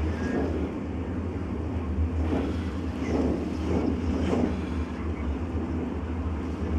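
Blizzard wind gusting at about 40–60 mph against a window: a steady low rumble, with several stronger gusts swelling and fading in the middle.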